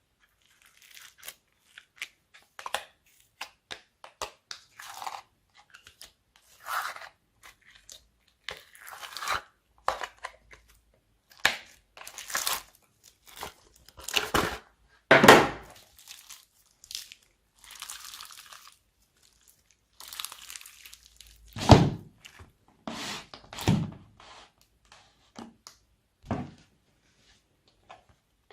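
Slime being squeezed, stretched and mixed by hand: irregular sticky crackles, pops and squelches, with a few louder wet crunches.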